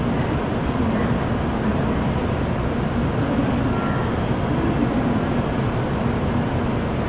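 N700-series shinkansen train at the platform, a steady low rumble and hum from the train with no sharp events.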